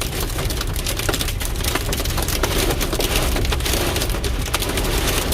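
Hail and rain pelting down in a storm, a dense patter of sharp clicks, over a low rumble of gusting wind on the microphone.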